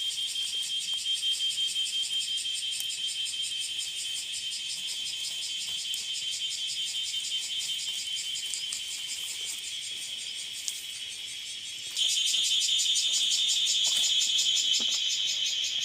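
Dense chorus of chirring insects, a high, rapidly pulsing trill with one steady shrill tone inside it. It gets suddenly louder about twelve seconds in.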